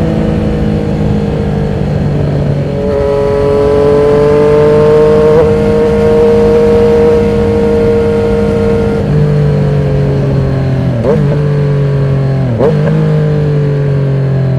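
Yamaha MT-09's three-cylinder engine running loud through a Termignoni exhaust with the dB killer removed, heard while riding. The note holds steady, then steps in pitch several times, with two brief sharp dips in the second half.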